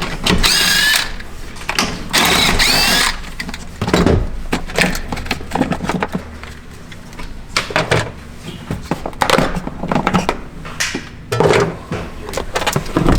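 Power drill run in two short bursts, its pitch wavering, while fasteners are undone to remove the stock battery. After that come scattered clicks and knocks of tools and parts being handled.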